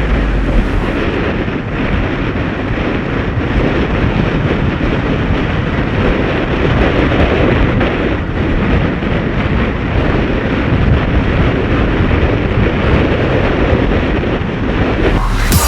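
Strong wind buffeting the microphone over rushing water and chop, a constant loud roar during a high-wind windsurfing run.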